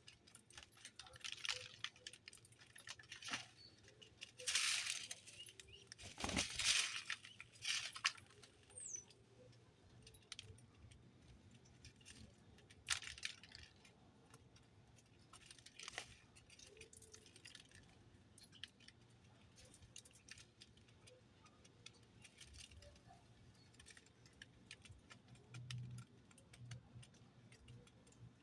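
Small birds at a feeder: scattered light taps and clicks, with a few brief wing flutters, the loudest about five and seven seconds in.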